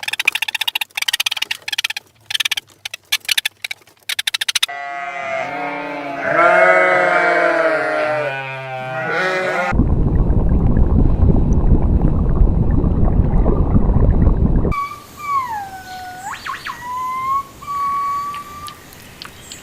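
Several short farm-animal clips one after another: a fast clatter of clicks, then many overlapping bleating calls, then a steady rushing noise, and near the end a whistled bird call that glides down and back up.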